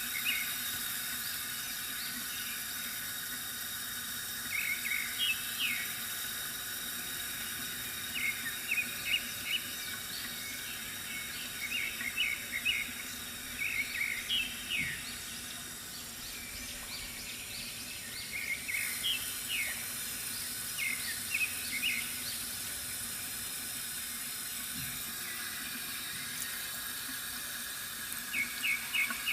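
Bamboo water fountain running with a steady trickle of water, while small birds chirp in short clusters of quick notes every few seconds.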